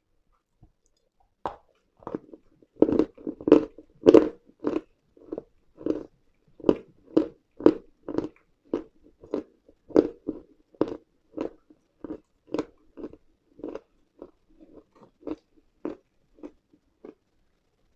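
A person biting and chewing dry pieces of edible chalk-like mineral, close to the microphone. There is a rapid series of sharp crunches, about two a second, loudest a few seconds in, then becoming softer and sparser toward the end.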